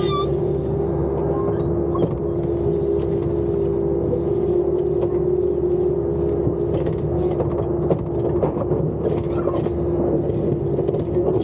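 Bobcat skid-steer loader running steadily, a constant drone over a low rumble, with scattered knocks and clatter.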